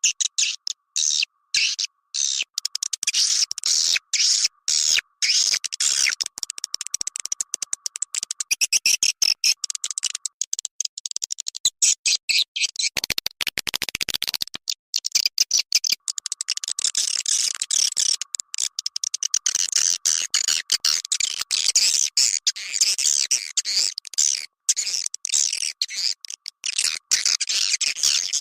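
Swiftlet lure-call recording: fast, dense, high chirping and twittering of swiftlets, played on a loop to attract swiftlets to a nesting house.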